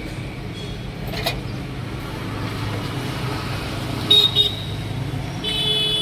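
Road traffic running steadily with vehicle horns tooting: two short toots about four seconds in, then a longer toot near the end.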